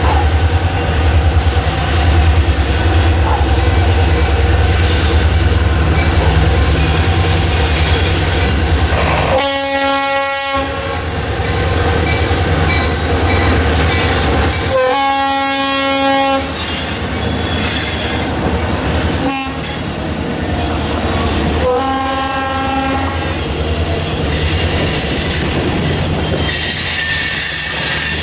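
Diesel locomotive passing with its engine rumbling, sounding its horn in four blasts, long, long, short, long: the standard grade-crossing warning. Steel wheels squeal near the end.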